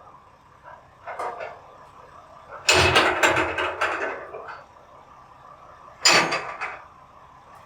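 Recyclables crashing and clattering as they are dumped into a garbage truck's hopper, one long crash about three seconds in and a shorter one about six seconds in, over the truck's steady running hum.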